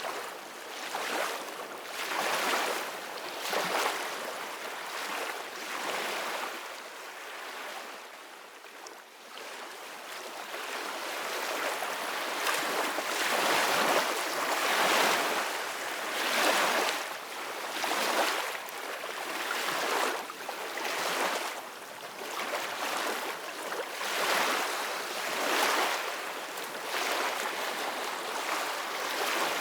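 Ocean waves breaking and washing on a shore, a steady surf hiss that swells and ebbs with each wave, quieter for a few seconds before building again.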